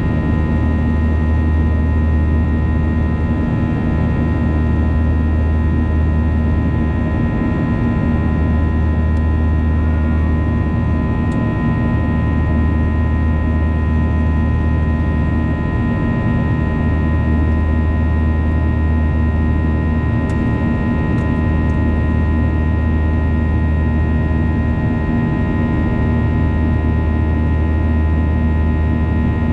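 Boeing 737-800's CFM56-7B jet engines running steadily in the climb after takeoff: a steady rush of noise with a low drone and several steady whining tones.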